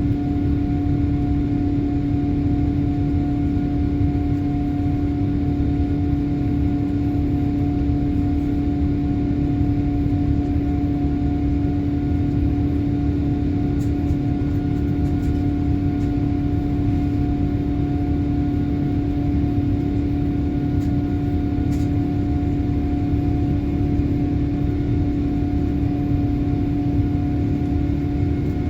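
Boeing 787 cabin noise: a steady, even drone with a constant low hum, and a few faint ticks midway.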